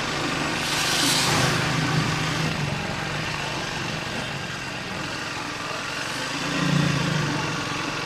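Triumph Speed 400's single-cylinder engine running while riding, a steady drone that swells twice as the throttle opens, about a second in and again near the end. A brief rush of hissing noise comes about a second in.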